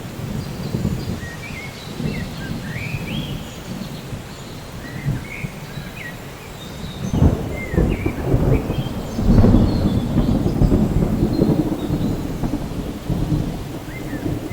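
Thunderstorm: rain falling with thunder rumbling low, the rumble swelling louder about halfway through and rolling on. Short high chirps come and go over it.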